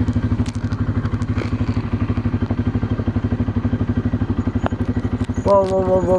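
Quad bike engine running steadily with an even, rapid pulsing beat and no change in pitch.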